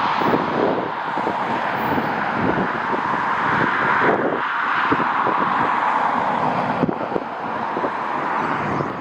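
Jet airliner engine noise, a steady rushing sound, with gusty wind buffeting the microphone in frequent short thumps.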